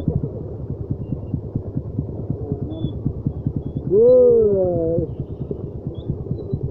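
Motorcycle engine running at low revs, a steady rapid beat of about ten pulses a second. About four seconds in, a person gives one drawn-out call that rises and falls in pitch, louder than the engine.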